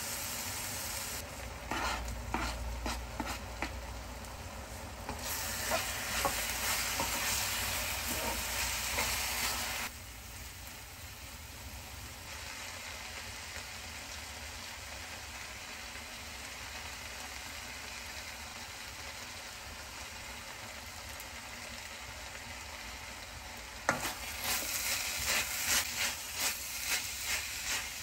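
Minced chicken frying in a wok, sizzling steadily while a wooden spoon scrapes and stirs it. The stirring comes in two spells, with a quieter stretch of plain sizzling in between, and starts again with a sharp knock of the spoon near the end.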